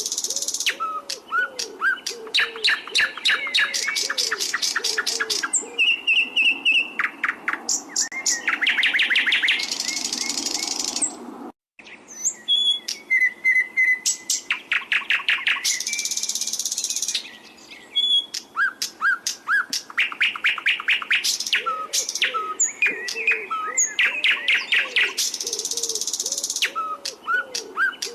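Songbirds singing continuously in a cage-bird training recording: rapid repeated trills and loud high bursts, with softer looping lower whistles beneath. The song drops out for an instant about twelve seconds in, then carries on.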